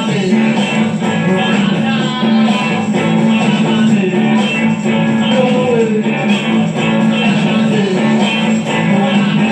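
Rock band playing a song, led by strummed guitar.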